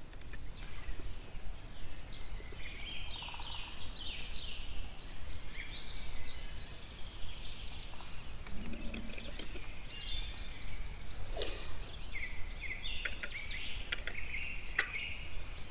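Small birds chirping in the background, many short twittering calls throughout, over a steady low hum, with a few faint clicks.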